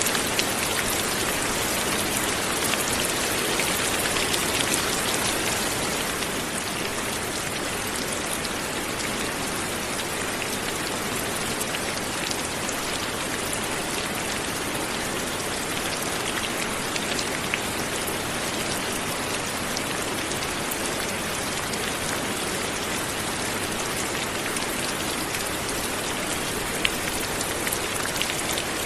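Light steady rain falling on a surface, a dense even patter of many small drops, a little louder in the first few seconds.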